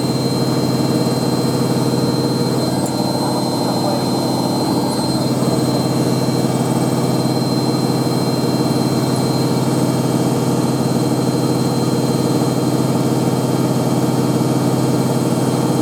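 Hoover A3308 Computer Control 1100 washing machine in its spin cycle at high speed, around its 1100 rpm top spin, with a steady motor and drum hum that holds an even pitch.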